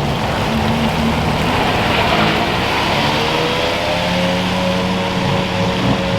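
Porsche Carrera GT's V10 engine running as the car pulls away. Its note climbs slightly and then holds steady from about four seconds in, over a steady hiss of rain.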